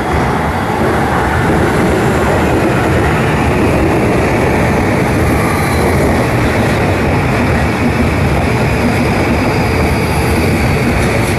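JR East E655 series 'Nagomi' electric train running past along the platform at close range: a steady, loud rumble of wheels and running gear.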